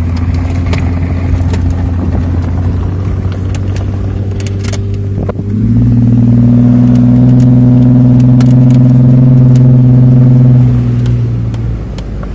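Off-road 4x4's engine heard from inside the cab as it drives over a sandy track. The engine runs steadily, then about halfway through it revs up under throttle and holds louder and higher for about five seconds before easing off near the end. Occasional short knocks are heard throughout.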